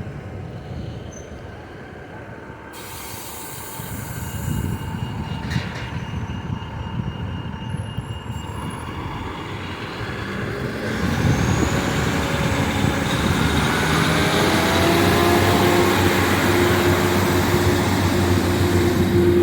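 Diesel train approaching the platform, growing steadily louder from about halfway, with a steady low engine hum as it comes in.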